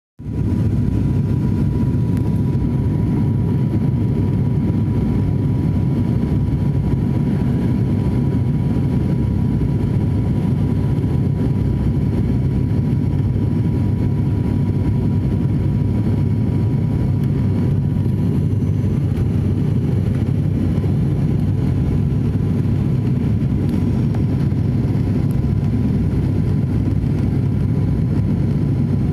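Steady low rumble of an aeroplane, even and unchanging, with a faint thin steady tone above it.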